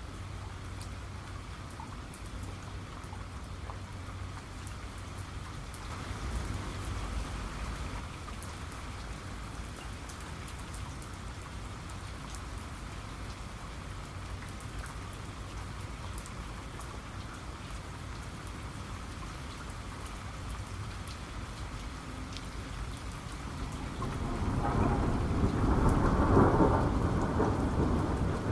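Steady rain falling, with a hiss and the patter of drops. A long, low rumble of thunder swells up about four seconds before the end and is the loudest sound.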